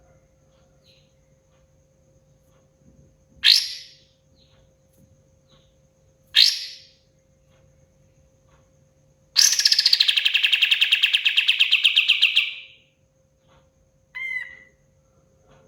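Kapas tembak songbird calling: two short, sharp calls about three seconds apart, then a long rapid rattling trill of about three seconds, and one more short call near the end.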